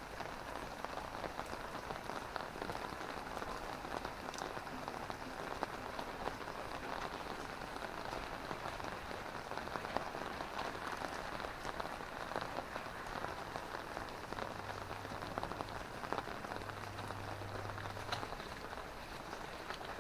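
Drizzling rain falling steadily, with a constant patter of fine drops ticking on surfaces. A faint low hum comes in for a few seconds in the second half.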